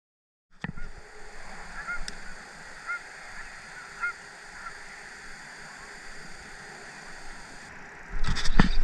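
Geese honking a few short times, about a second apart, over a steady outdoor hiss. Near the end this gives way to a louder low rumble and a few sharp knocks.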